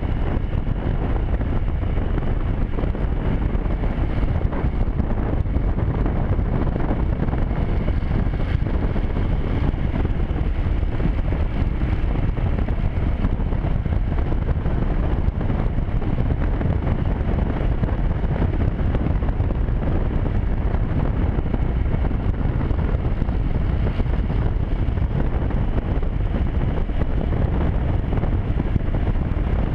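Steady wind buffeting the microphone of a moving motorcycle, with the motorcycle running underneath.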